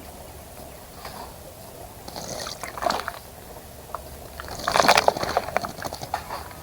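A small bird bathing in a bird bath, splashing and fluttering in the shallow water in two short bouts, the second louder.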